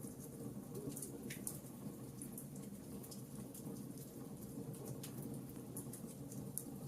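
Fireplace fire crackling gently: irregular small sharp pops, a few a second, over a soft, steady low rush of flames.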